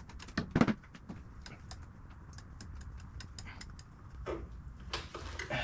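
Socket ratchet clicking in quick, fading strokes as a spark plug is turned, with one louder knock of a tool against metal about half a second in. A few scattered taps and clicks follow near the end.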